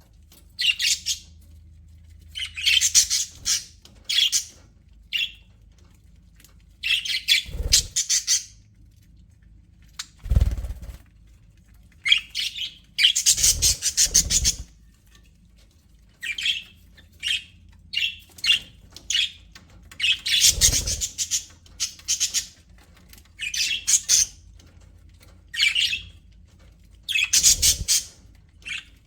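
Budgerigars chirping, chattering and squawking in short bursts every second or two, with a few low thumps among them.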